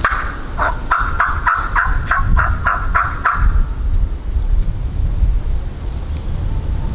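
Wild turkey calling: a quick run of about a dozen evenly spaced notes, about four a second, that stops about three and a half seconds in. A low rumble continues underneath.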